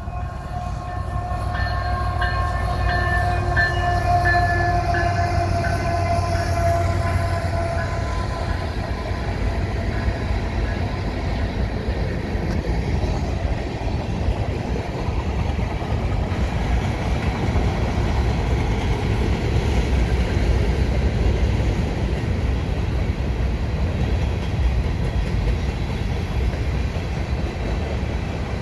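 CN potash freight train passing: the diesel locomotive's horn sounds a multi-note chord for about the first eight seconds, its pitch sagging slightly as it goes by. Then there is a steady rumble and clatter of covered hopper cars rolling past on the rails.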